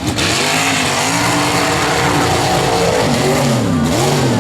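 Mud-racing truck's engine revving hard, its pitch climbing and dropping again and again as the throttle is worked through the mud pit.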